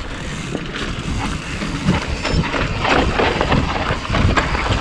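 Mountain bike descending a loose, rocky dirt trail: tyres crunching and skidding over dirt and rock, the bike rattling over bumps, and wind rushing over the camera microphone.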